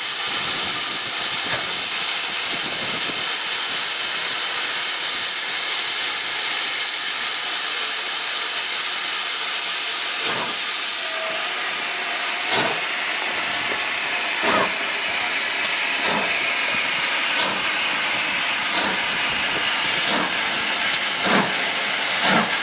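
Steam locomotive hissing loudly and steadily, which cuts off sharply about halfway through. Slow, separate exhaust beats follow and come closer together as the engine pulls away.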